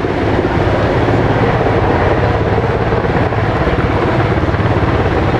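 Helicopter running close by: a loud, steady rotor noise with a fast chop and a deep drone.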